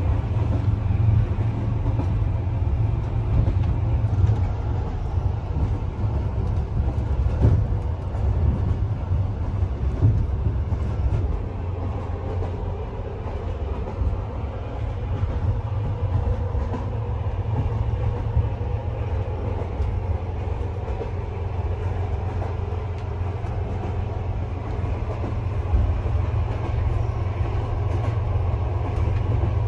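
Train running with a steady low rumble, with a few faint knocks about a quarter to a third of the way through.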